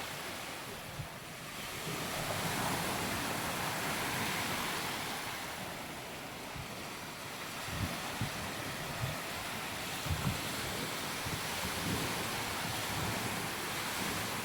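Sea waves washing up on a sandy beach, the surf swelling a couple of seconds in, with wind on the microphone and a few short low thumps in the second half.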